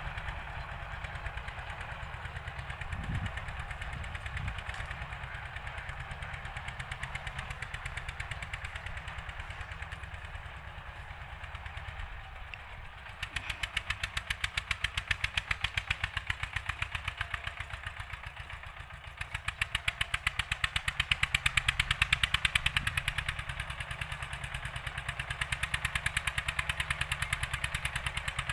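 Old-model Eicher tractor's diesel engine running with a fast, even chugging beat while working a field cultivator. It gets louder about halfway through, louder still around two-thirds in, then eases back.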